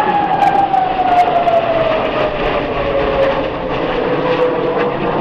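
Hongdu L-15E jet trainer flying past: a loud jet roar with a whine that slides steadily down in pitch as the aircraft passes and draws away.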